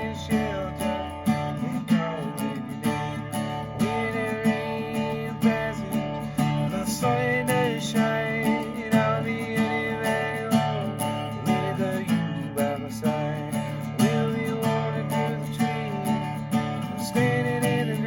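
Instrumental break of a live folk/country song: acoustic guitar strummed in a steady rhythm, with a sliding, bending melody line played over it.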